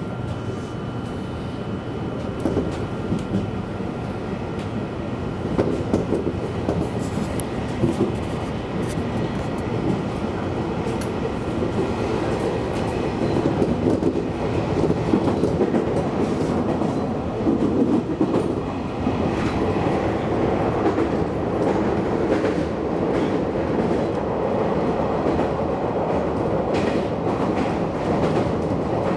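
JR Kyushu 813 series electric train running, heard from the front of the train: a steady rumble of wheels on rail with clicks over the rail joints. A steady high whine fades out about twelve seconds in.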